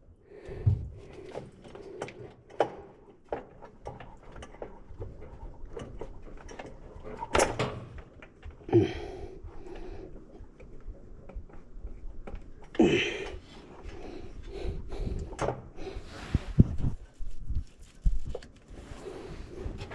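Scattered clicks, knocks and a few louder clunks of hand tools and metal engine parts being handled while fuel injectors are worked out of an LS V8's fuel rail.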